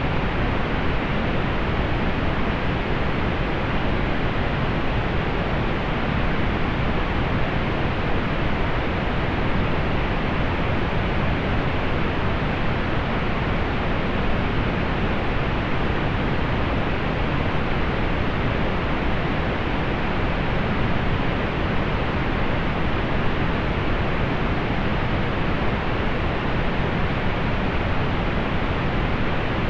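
Steady synthetic pink noise: an even, unchanging hiss weighted toward the low end and softening above the upper mids.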